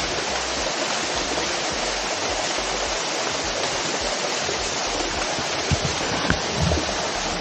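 Rushing water from a waterfall pouring over rocks, a steady, even roar. A few soft low thumps come about six seconds in.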